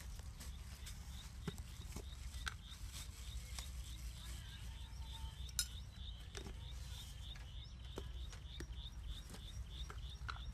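A bird repeats a short high chirp about three times a second over a steady low outdoor rumble. Light clicks and taps of a spoon against a small bowl and jars come through as seasonings are spooned out, with one sharper click about halfway through.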